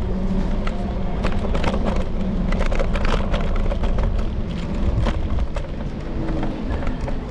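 Wind rumbling over a handlebar-mounted camera on a moving electric scooter, with many sharp rattling clicks from the ride over the street surface.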